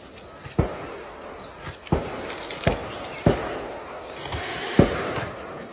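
A series of dull thumps, five of them at uneven gaps of about a second, over a background of outdoor noise with faint bird chirping.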